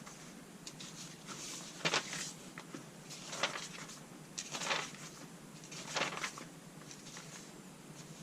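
Paper pages of an instruction manual being flipped, four short rustling swishes about a second and a half apart.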